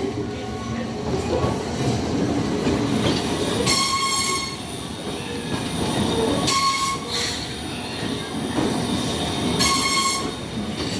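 Enoden electric train running at the station crossing: a steady rumble of wheels on rails, with a short high ringing tone that comes back about every three seconds.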